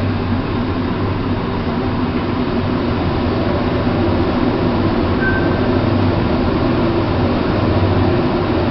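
Steady low mechanical rumble and hum, with a brief faint high tone about five seconds in.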